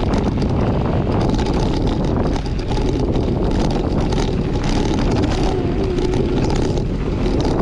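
Steady wind rush and rumble on the microphone while riding a bicycle along a loose trail.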